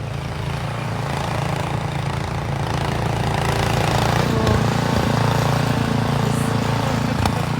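An engine running steadily, a little louder through the middle.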